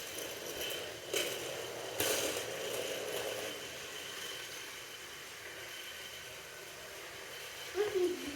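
Toy train running along its track with a steady whir, with two sharp clatters about one and two seconds in.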